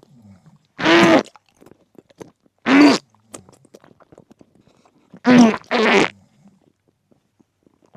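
Four short voiced vocal sounds, each about half a second long, the last two back to back, with faint clicks between them.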